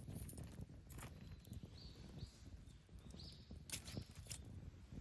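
Campfire burning: irregular sharp crackles and pops of the wood over a low, steady rumble of the flames. From about two seconds in, several short high chirp-like notes come through.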